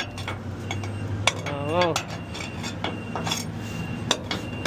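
Scattered metallic clinks and knocks from debris being handled around the packer wall tracks of a front-load garbage truck, over the truck's engine idling and a faint high beep repeating in short pulses.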